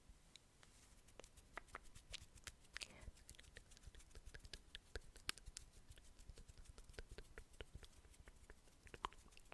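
Faint, close-miked ASMR mouth sounds: an irregular run of small clicks and pops, several a second.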